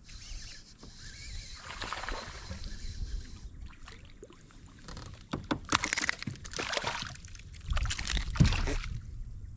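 Water sloshing and splashing at a kayak, with a run of sharp knocks and clicks in the second half.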